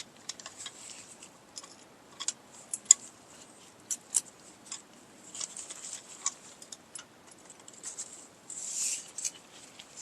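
Channel-lock pliers working a seized drum-brake self-adjuster: irregular sharp metal clicks and taps, with a short scrape near the end.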